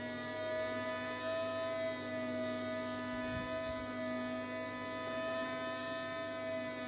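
A small electric motor running at a steady speed, giving an even whine.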